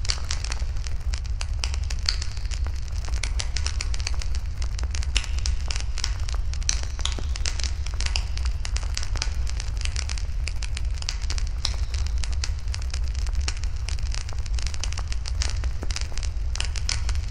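Wood fire burning in a fire pit, with dense, irregular crackles and pops over a steady low rumble.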